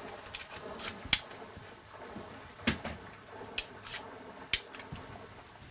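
Irregular sharp clicks and knocks, about half a dozen over a few seconds, the loudest about a second in.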